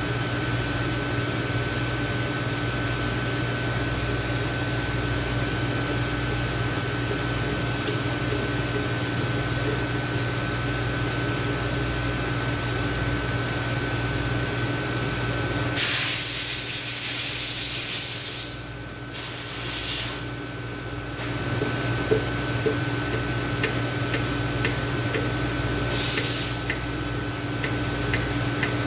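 Three sprays from an aerosol cleaner can over a steady shop hum with a constant whine: a hiss of nearly three seconds about halfway through, a second of about a second just after, and a short burst near the end. A few light clicks fall between the last two sprays.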